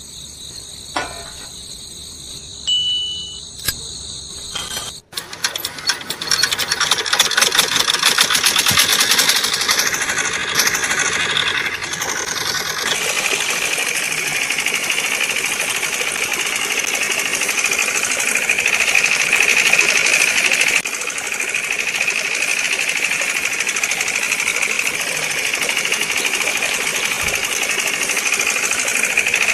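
A homemade miniature model tractor's small engine runs with a fast, dense rattling clatter. It starts abruptly about five seconds in, after a short stretch of chiming background music.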